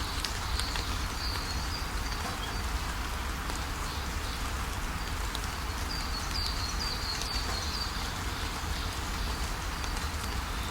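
Steady rushing of a waterfall with small birds chirping over it; a quick run of short, falling chirps comes about six to seven seconds in.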